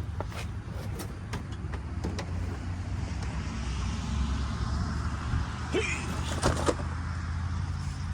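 A loose car seat being lifted out of a coupe's interior: scattered clicks, rattles and knocks, with a few louder clunks about six seconds in, over a steady low hum.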